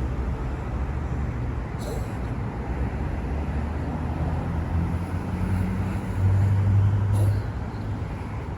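City street traffic: a steady low rumble of passing vehicles, with one engine passing close and loudest from about six to seven seconds in.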